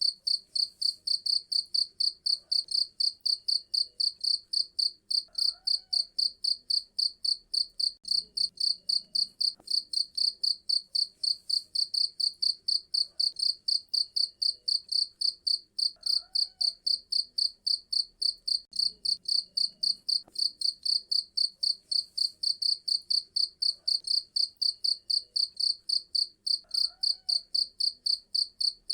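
A cricket chirping loudly and without a break, a steady high-pitched pulse at about three to four chirps a second.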